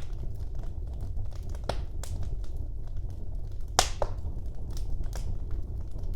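Wood fire burning in a fireplace: a steady low rumble of the flames with scattered crackles and pops, the loudest a sharp snap about four seconds in.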